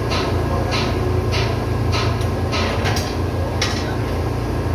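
Caterpillar auxiliary diesel engine running with a steady drone, with a string of about seven short, sharp hissing strokes about every 0.6 s over it that stop near the end.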